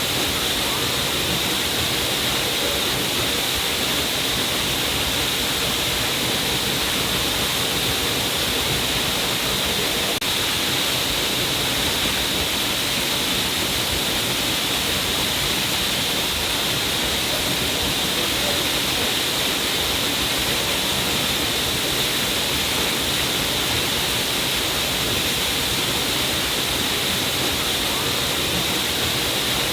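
A small stream of water falling down a rock cliff, splashing in a steady, even rush with a bright hiss.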